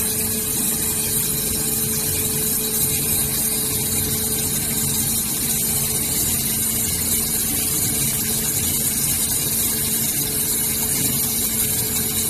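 Five-axis CNC waterjet cutting machine running: a steady high-pitched hiss over a steady low hum.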